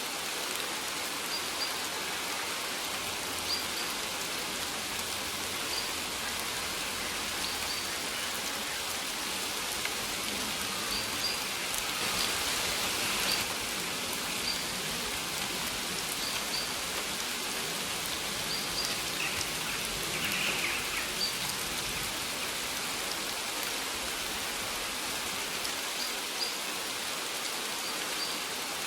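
Steady rain falling, with short high bird chirps repeating every second or two.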